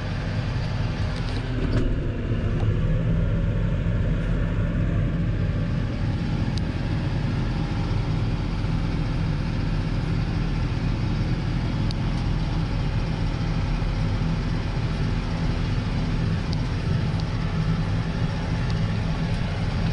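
Compact tractor's diesel engine running steadily under load, driving a PTO snowblower through the economy 540E PTO setting at reduced engine speed.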